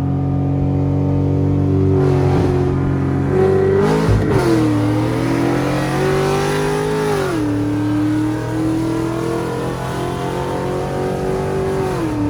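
C6 Corvette V8 with aftermarket headers and exhaust pulling hard at full throttle. Its pitch climbs through each gear and drops sharply at three upshifts, about four, seven and a half, and twelve seconds in.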